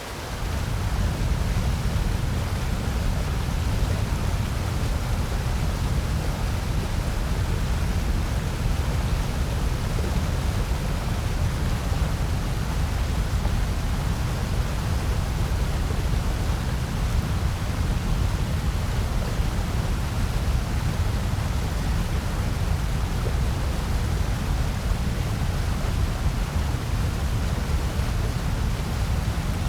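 Steady electronically generated noise of the white-noise kind, an even hiss with its most weight in a low rumble. It rises in within the first second and then holds without change.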